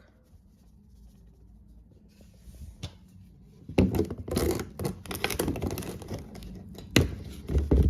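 Seasoning containers being handled and shaken over cut-up raw chicken: rustling and scratching with sharp clicks, starting about four seconds in, with one loud click near the end.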